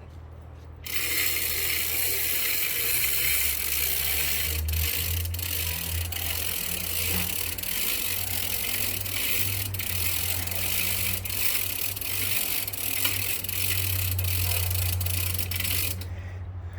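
Tru Cut sawmill running: a steady engine hum under a loud hissing rattle that starts about a second in and stops near the end, typical of the saw working through a log.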